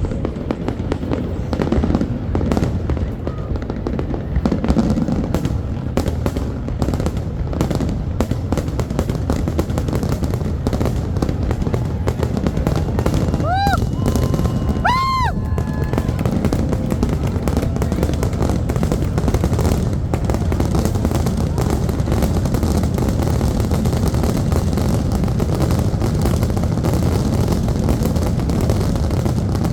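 Fireworks going off in quick succession, popping and banging, over the chatter of a crowd. Two short whistles, each rising then falling, come about halfway through.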